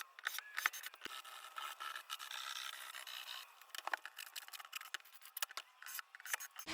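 Wood being handled: irregular knocks and clicks with scraping and rubbing between them, during work on a plywood caravan floor.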